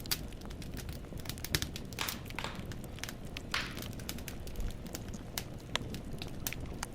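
Wood fire in a fireplace crackling: irregular sharp pops and snaps of burning logs over a steady low rumble of the flames, with a few longer hissing crackles.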